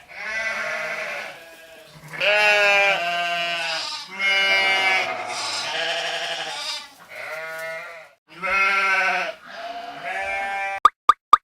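Sheep bleating: a string of about seven or eight wavering bleats, each lasting about a second. Near the end a quick, even run of popping clicks starts.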